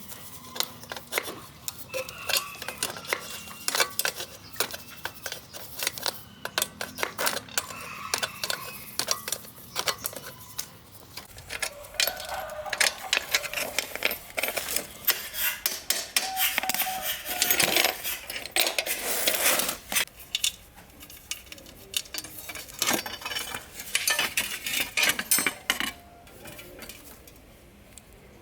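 Metal bicycle parts and tools clinking and knocking as they are handled, many short knocks at uneven intervals, some with a brief ring, busiest a little past the middle.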